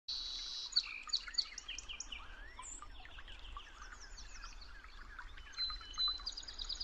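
Several songbirds chirping and singing at once, a dense chorus of quick high chirps and short sweeping notes, over a faint low background rumble.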